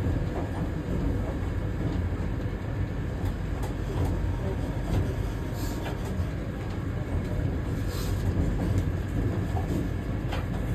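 Vande Bharat Express electric train running, a steady low rumble of the moving train with a few short clicks and knocks, one near the middle and a couple toward the end.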